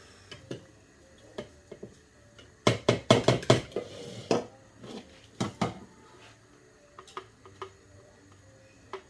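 Kitchenware clattering: a quick run of knocks and taps about three seconds in, then a few single knocks, as dishes and a utensil are handled.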